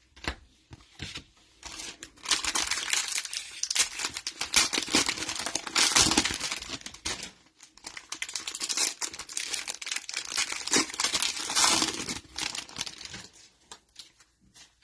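Cellophane wrapper of a trading-card cello pack crinkling and tearing as it is opened, in two long stretches of dense crackle with a short break about seven and a half seconds in.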